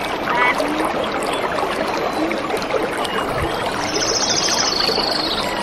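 Small birds chirping over the steady rush of a stream, with a rapid high-pitched trill about four seconds in.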